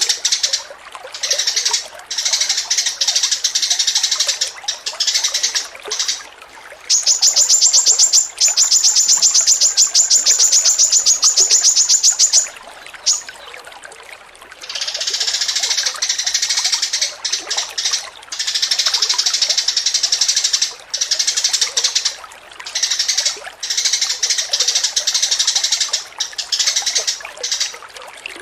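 Caged songbirds singing in dense, chattering phrases with short pauses, the vigorous 'gacor' song played as masteran to train pet birds. From about seven seconds in, a fast, even trill of repeated high notes runs for about five seconds, then the chattering song resumes.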